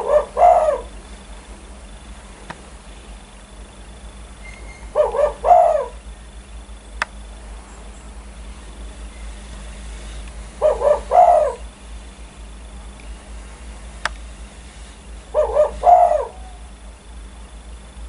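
Spotted dove (tekukur) cooing: four short phrases of several quick coo notes each, repeated about every five seconds.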